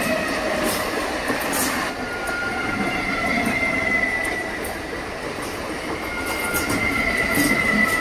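Electric multiple unit local train running past at speed, its wheels rumbling and clattering over the rails with light clicks at the rail joints. A thin high squeal comes and goes, twice, over the rolling noise.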